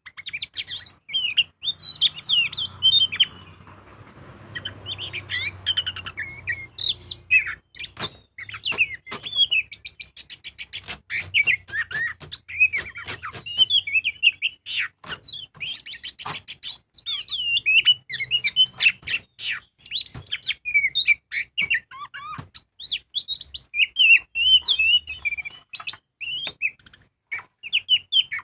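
Oriental magpie-robin singing loudly and without a break: rapid, varied whistled phrases mixed with sharp clicks and chatters, with a short lull about four seconds in.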